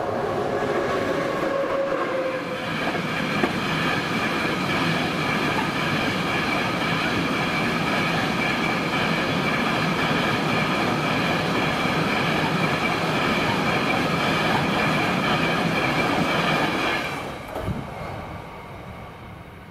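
A train passing over a level crossing: loud wheel-on-rail rumble with a steady high whine. It builds over the first few seconds, holds, and drops away suddenly near the end as the last car clears.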